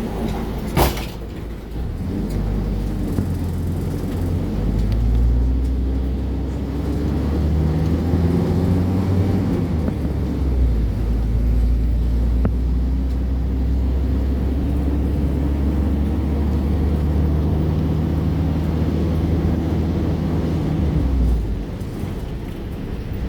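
A motor vehicle's engine running close by, a low drone whose pitch rises and falls as it revs, dropping away near the end. A single sharp click sounds about a second in.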